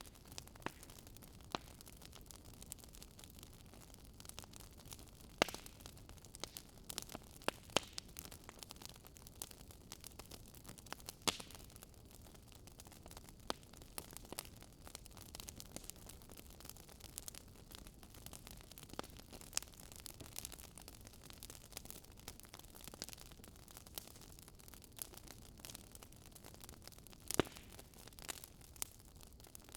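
Wood fire crackling softly in a fireplace: irregular snaps and pops of burning logs over a low steady hiss, with a few sharper pops.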